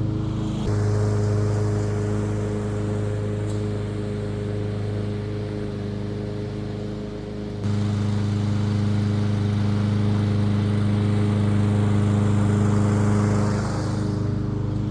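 Masport Rotarola petrol rotary push mower running steadily while mowing, its engine note stepping up abruptly twice, once a little under a second in and again about halfway.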